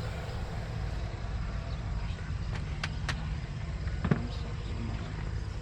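Wind buffeting the microphone outdoors, a steady low rumble, with a few faint sharp clicks in the middle and one brief louder sound about four seconds in.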